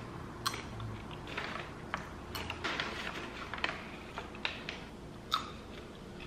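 Mouth chewing cheddar mini popcorn: faint, irregular crisp crunches, about one every half second.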